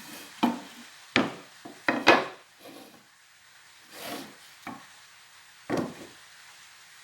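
About six separate knocks and scraping rubs of wood being handled, over a faint steady hiss, the loudest in the first couple of seconds.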